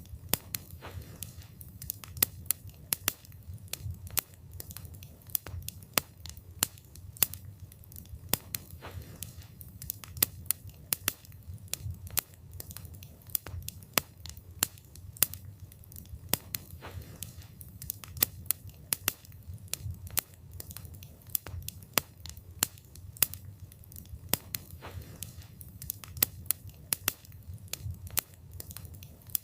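Wood fire burning, with frequent irregular sharp crackles and pops from the burning wood over a low, steady rumble.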